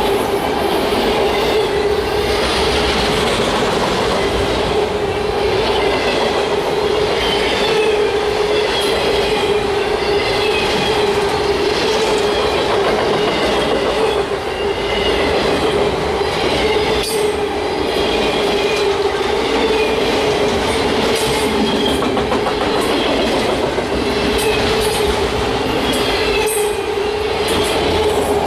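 Freight train cars rolling past with a steady, high wheel squeal, shorter squeals over it and scattered clicks of wheels over the rail.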